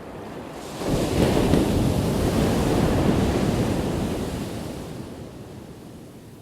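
An ocean wave breaks on the shore. The surf rises sharply about a second in, crashes, then washes out and slowly fades.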